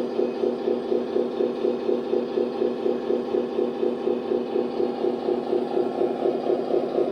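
Servonaut SM3 sound module playing a Scania V8 engine at a steady idle through the RC truck's small loudspeaker, with an even, regular throb.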